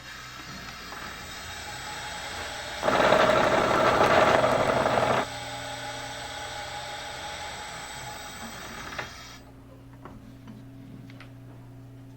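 Bridgeport milling machine running, with a harsher, louder cutting noise for about two seconds as the cutter takes a light pass of about a tenth. The machine noise stops about nine seconds in, leaving a steady low hum.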